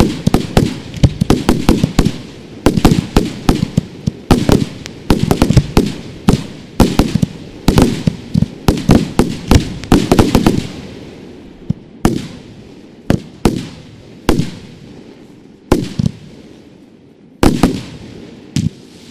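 Fireworks going off: a rapid volley of sharp bangs, thinning out after about ten seconds to single bangs a second or two apart.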